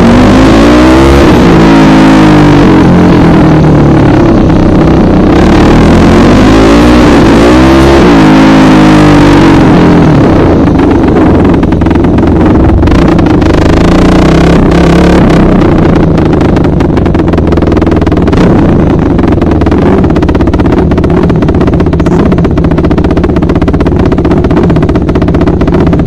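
Dirt bike engine revving, its pitch rising and falling several times over the first ten seconds or so, then running at a steadier speed.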